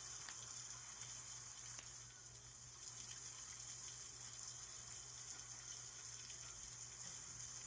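Heavy storm rain pouring down, a steady faint hiss.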